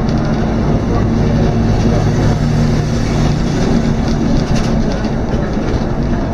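Scania K230UB city bus's five-cylinder diesel engine running at a steady pitch while under way, heard from inside the bus over road noise.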